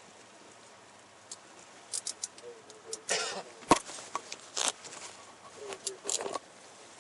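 Metal handcuffs being put on a person's wrists: scattered clicks and metallic ticks of the ratchet and chain, with a rustle of clothing and one sharp knock about halfway through.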